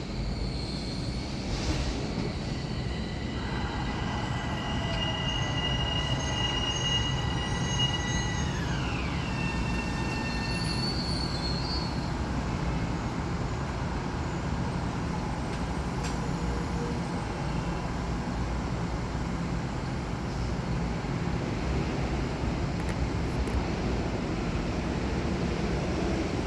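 Metro-North electric commuter train running through the station: a steady rumble, with several high whining tones that come in about three seconds in and slide down in pitch together around eight to nine seconds in.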